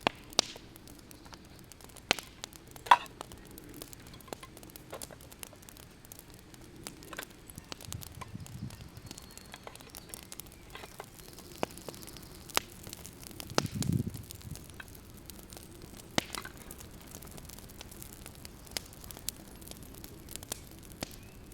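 Food frying with a faint steady sizzle, broken by scattered sharp clicks and taps. A low thud comes about fourteen seconds in.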